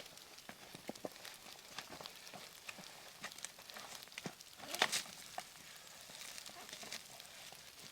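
Wood fire crackling, with scattered small pops and a louder cluster of crackles about five seconds in.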